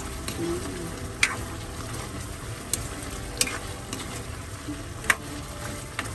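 Chicken pieces sizzling in their own juices in a nonstick wok while a silicone spatula stirs them, with a few sharp clicks of the spatula against the pan.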